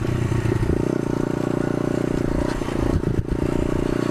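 125cc pit bike's single-cylinder engine running as it is ridden, with short dips in its note just under a second in and about three seconds in.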